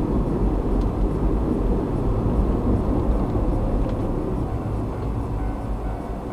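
Car driving, recorded by a dashcam inside the cabin: a steady low rumble of road and engine noise that grows quieter toward the end.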